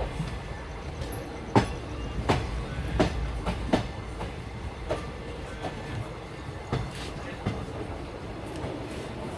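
Train running on the rails with a steady low rumble, and sharp clacks of the wheels passing over rail joints: a run of clacks roughly a second apart in the first half, then fewer.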